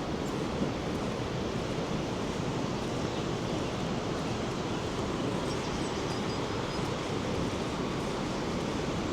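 Steady rushing of the Rhine Falls' water, a continuous even roar of falling water.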